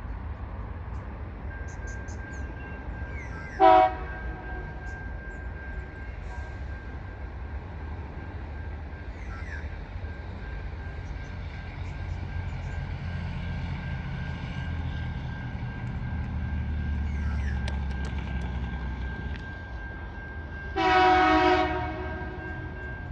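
TasRail TR class diesel locomotive sounding its horn for a level crossing: a short toot, then a longer blast of more than a second near the end. Between the two, the low rumble of the locomotive and train grows louder as it approaches and passes.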